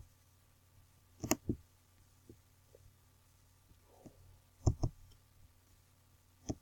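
Sharp clicks in a small room, about seven of them, some in quick pairs.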